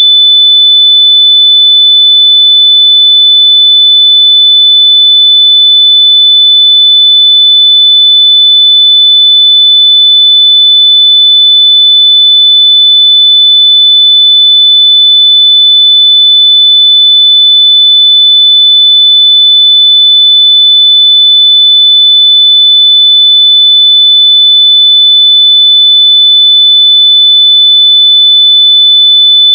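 A loud, continuous high-pitched test tone, a single steady pitch with no breaks, made to be played through lost wireless earbuds so they can be heard and found.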